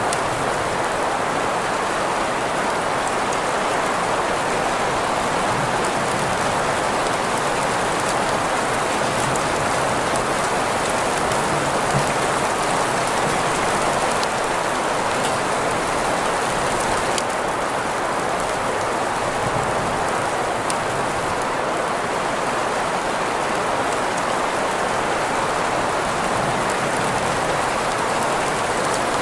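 Steady green noise blended with rain, an even continuous hiss with faint scattered drop ticks.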